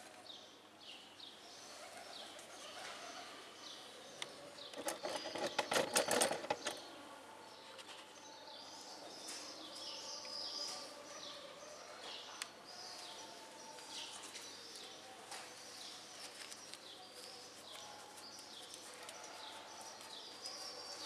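Birds chirping over and over in short, high, falling notes. About five seconds in comes a loud burst of clattering that lasts a second or two.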